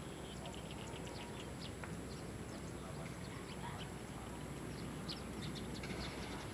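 Small birds chirping in many quick, short, high calls over a steady low outdoor rumble.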